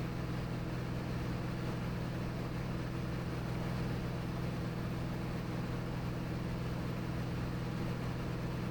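Cirrus SR22T's turbocharged six-cylinder engine and propeller droning steadily in level cruise, heard from inside the cabin.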